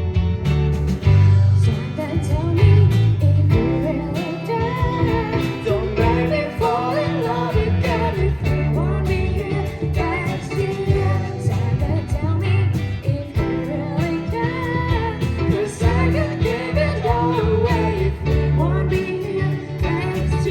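A live pop-rock band playing: guitar, bass and drums with a wavering lead melody over them.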